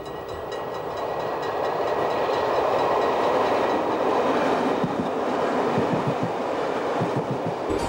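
Locomotive-hauled passenger train passing close by at speed: a rush of wheel and rail noise that grows louder over the first few seconds, with the thump of wheels over rail joints in the second half.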